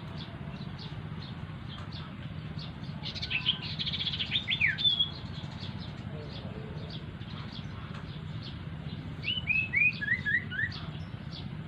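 A small bird known in Indonesia as sirtu or cito sings two short bursts of quick, downward-slurred whistled notes, one about three seconds in and one near nine seconds. Faint high ticks repeat about twice a second over a steady low hum.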